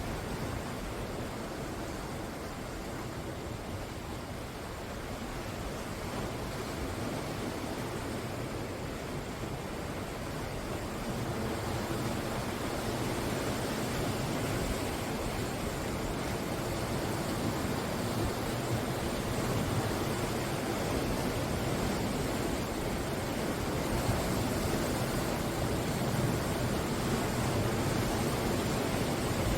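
Sea surf breaking and washing ashore in a continuous rush, swelling gradually louder through the second half.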